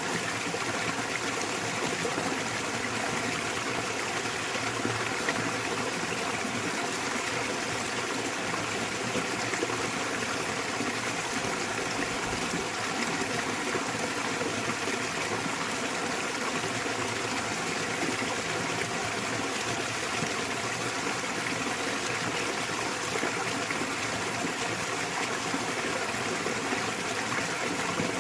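Small waterfall in a mountain stream, water pouring and splashing steadily without a break.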